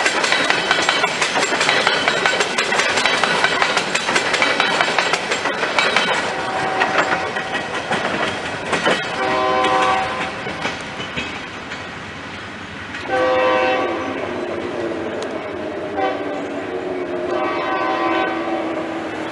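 Loaded coal hopper cars rolling past, their wheels clattering over the rail joints. As the last car goes by, the lead locomotive's Nathan K3LA horn sounds four blasts from the head end of the train.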